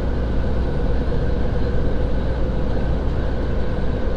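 Steady engine and road drone inside a semi-truck's cab while driving: a constant deep rumble with a steady hum over it.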